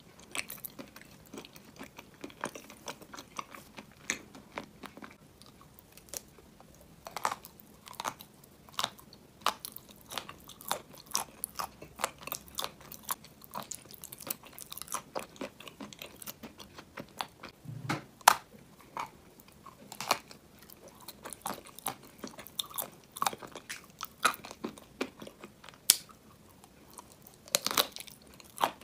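A person biting and chewing a crunchy brown shell with a cream filling: irregular sharp crunches between quieter chewing, with a few louder bites near the middle and near the end.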